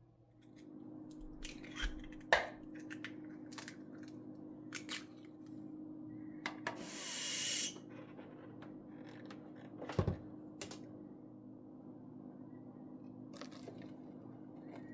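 Kitchen work sounds: scattered clicks and knocks of things being handled, over a steady low hum. A hiss about a second long comes near the middle.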